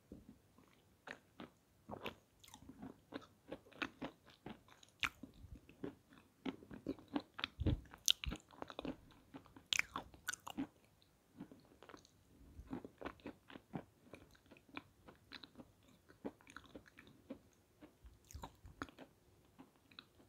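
A person biting and chewing dry lumps of peschanka, an edible sandy clay, close to the microphone: many short, crisp crunches at an irregular pace.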